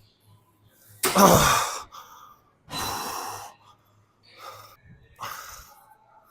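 A person breathing hard during a weight-training workout: a loud, partly voiced exhale about a second in, then three more heavy breaths.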